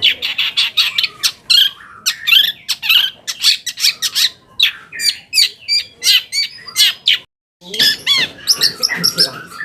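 Long-tailed shrike (cendet) singing a fast, dense run of sharp chirps, squeaky rising and falling whistles and harsher notes, breaking off for a moment about seven seconds in.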